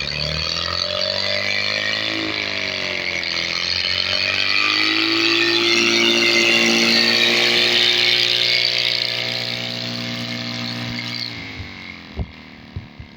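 Two-cylinder engine on a test run, its pitch rising and dipping with the throttle, holding high for a few seconds, then winding down and dropping off sharply near the end.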